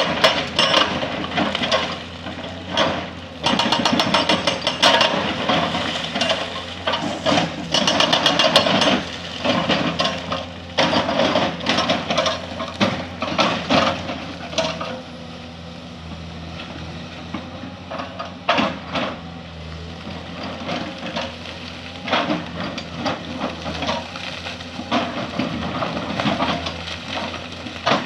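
Hydraulic breaker on a Komatsu 220 excavator hammering rock in rapid blows over the excavator's steady diesel engine. About halfway through the hammering thins out to scattered knocks while the engine keeps running.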